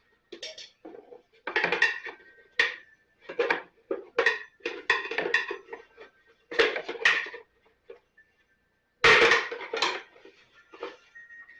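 Metal tools and parts clinking and clattering in a run of irregular knocks, some leaving a short metallic ring, with the loudest clatter about nine seconds in.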